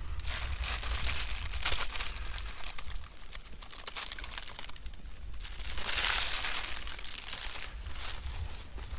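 Rustling and crinkling handling noise, crackly and uneven, loudest in a stretch during the first two seconds and again around six seconds in.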